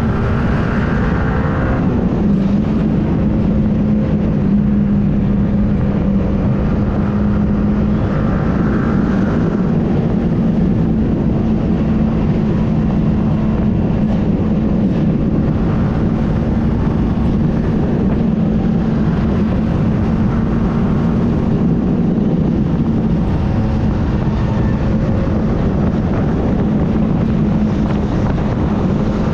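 Yamaha R15 M motorcycle's single-cylinder engine running at a steady cruise while riding, with a slight change in engine note about two seconds in and wind rushing past the microphone.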